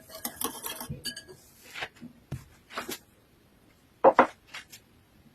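Kitchen utensils and dishes clinking with short ringing clinks, then two sharp knocks in quick succession about four seconds in.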